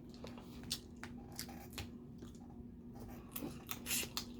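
Close-up eating sounds of shellfish: scattered sharp cracks and clicks of crab or crawfish shell being broken and picked apart, with wet chewing in between. A faint steady hum runs underneath.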